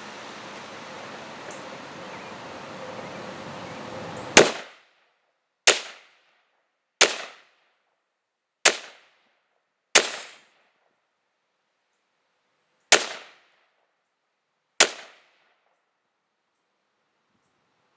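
AR-15 rifle firing single shots: seven sharp bangs at uneven intervals of about one to three seconds, each with a short echo tail. Light wind noise comes before the first shot, about four seconds in.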